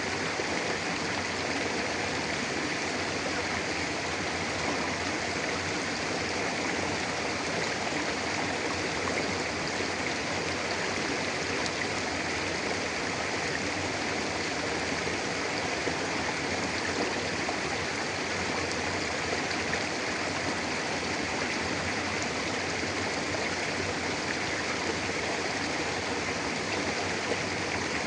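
Mountain river flowing over rocks: a steady rushing of water with no breaks or changes.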